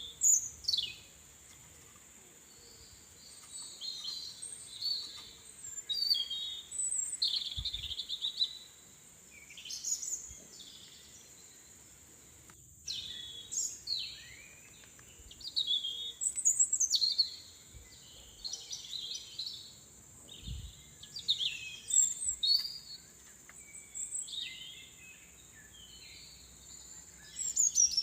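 Small birds singing: a run of short, quick chirping and trilling phrases one after another, over a steady high-pitched whine.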